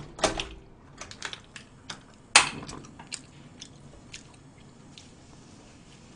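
Wet chewing and lip-smacking of a mouthful of food, a string of sharp smacks through the first four seconds with the loudest about two and a half seconds in, then fainter.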